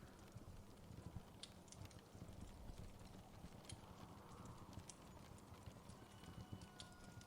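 Wood fire crackling faintly: sparse, irregular pops and snaps over a low, steady rumble.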